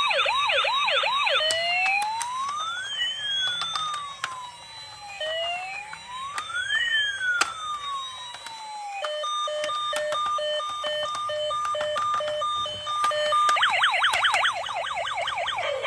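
Electronic police siren cycling through its modes: a fast yelp, then two slow rising-and-falling wails, then a steady on-off beeping pattern about two-thirds of the way in, and the fast yelp again near the end.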